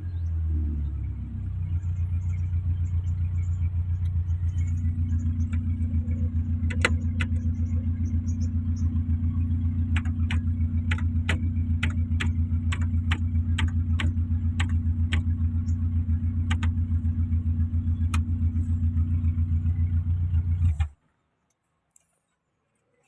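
Kia Picanto engine idling with an even, pulsing rumble and a few sharp clicks, then switched off suddenly near the end.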